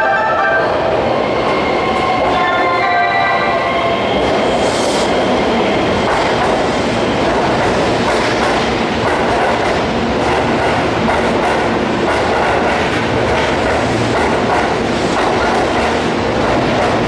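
A Keihan electric train running along the platform, a steady loud rumble of wheels on the rails with clickety-clack from the rail joints. A few steady tones sound over it in the first three or four seconds, then stop.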